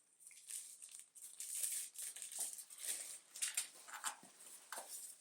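Plastic packaging rustling and crinkling in irregular bursts, with small clicks and taps of vacuum cleaner parts being handled.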